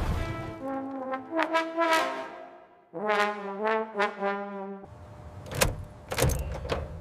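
A short brass-sounding tune, trombone-like: a few stepping notes, then a lower held note that cuts off abruptly about five seconds in. A few sharp knocks follow near the end.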